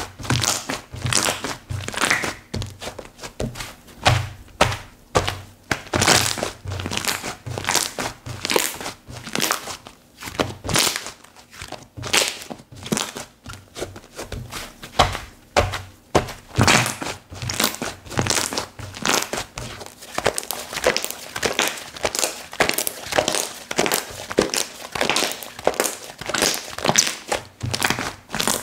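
Slime being squished and poked by hand, giving a steady run of sharp clicks and pops, a few each second.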